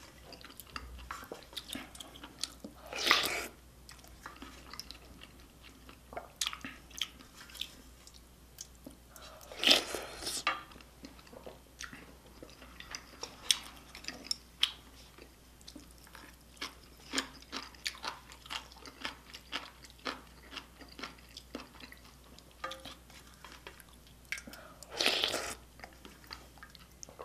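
Close-miked chewing and crunching of a meal of spicy beef soup, rice and kimchi: a steady run of small wet mouth clicks with three louder crunching bites, about three seconds in, about ten seconds in, and near the end.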